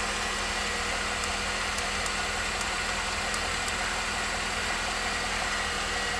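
Car engine idling steadily, a low even hum, with a few faint ticks in the first few seconds.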